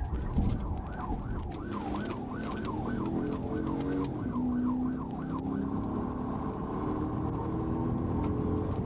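Police car siren in a rapid yelp, rising and falling about twice a second, changing to a steady tone a little past halfway. Under it a vehicle engine runs with its pitch climbing as it speeds up.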